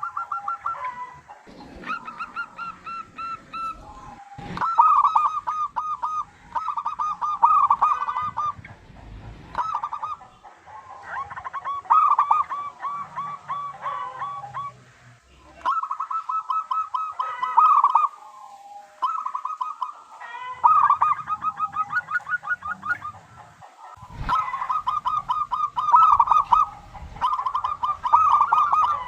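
Zebra doves (perkutut) cooing: quick runs of repeated notes, one phrase after another with short breaks.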